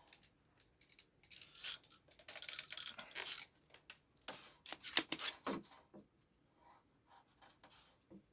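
Scraping, rustling and sharp clicks of small hand tools working on a TV power supply board while its capacitors are replaced, loudest about five seconds in, then a few faint ticks.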